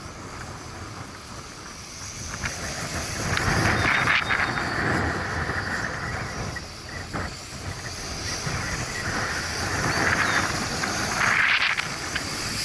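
Gusty 20–25 mph wind buffeting the microphone, a rough rumble that swells twice and eases between gusts.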